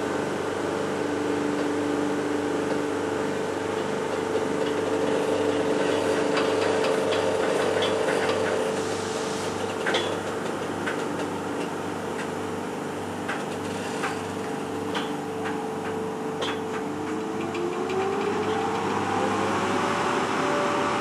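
Electric-hauled passenger train pulling out, with an Sr1 electric locomotive at its head: a steady electrical hum over a pulsing low rumble, sharp clicks and knocks of wheels over rail joints and points through the middle, and a whine rising in pitch near the end as it picks up speed.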